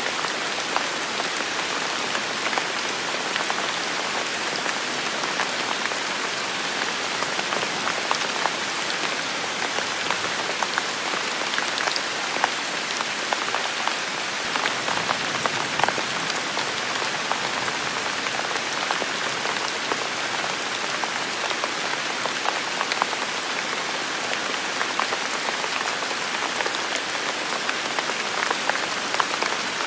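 Heavy rain falling steadily, a dense even hiss with many distinct drops pattering and ticking on surfaces.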